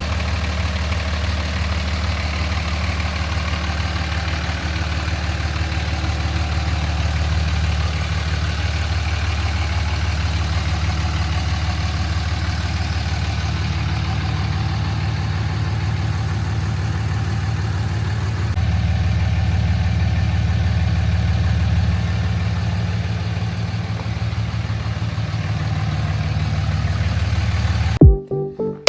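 Pickup truck's engine running steadily with a low, even hum, its tone shifting slightly a couple of times; beat-driven music cuts in just before the end.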